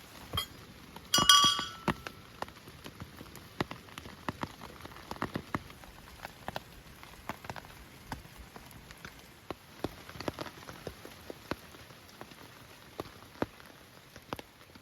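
Rain falling, with irregular drops tapping throughout. About a second in, a single loud, ringing metallic clink.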